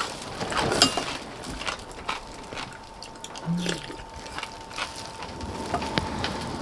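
Spoons and chopsticks clicking and clinking against bowls while eating, with scattered small clicks and a brief low hum about three and a half seconds in.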